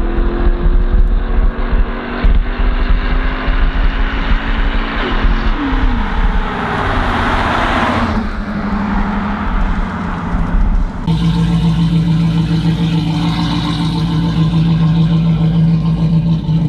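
Hemi V8 car exhaust through Flowmaster mufflers, revving and accelerating with pitch rising and falling. About eleven seconds in the sound changes abruptly to a steady, deep exhaust drone.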